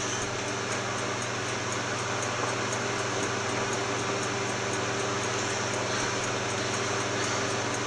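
Steady background hum and hiss, like a fan or air conditioner running, with a faint regular high ticking about five times a second.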